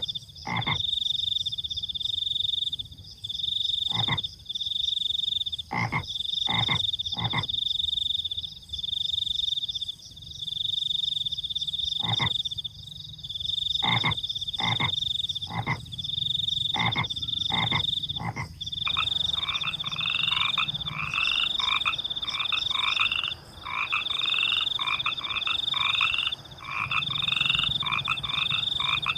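Frogs croaking over crickets chirping at night. A high-pitched cricket trill pulses steadily throughout, while single short frog calls come scattered at first, then, about two-thirds in, a rapid run of repeated croaks starts up and carries on to the end.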